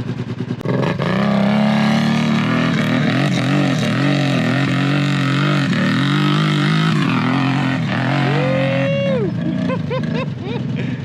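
ATV engine revving hard under load, its pitch rising and falling as the throttle works. It eases off about seven seconds in.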